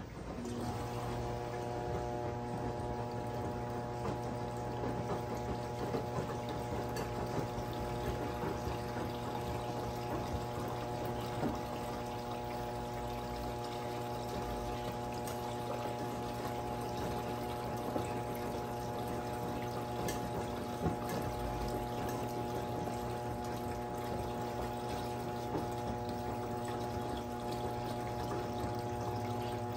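Brastemp 17 kg washing machine's drain pump switching on and running steadily with a hum, water rushing through it.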